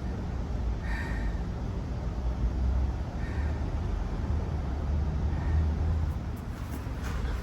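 A bird calling three times, each call short and fainter than the last, over a steady low rumble.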